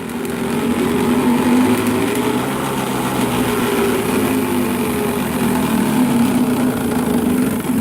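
A small plastic Coke bottle wedged into an upside-down Mongoose bicycle, clattering rapidly against the turning rear wheel. It makes a steady, buzzing rattle meant to sound like a small motorbike engine.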